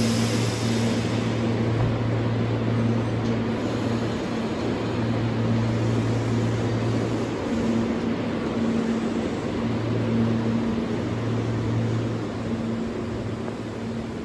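Electric train running noise at a station platform: a steady rumble and hiss under a low hum that comes and goes, easing off a little near the end.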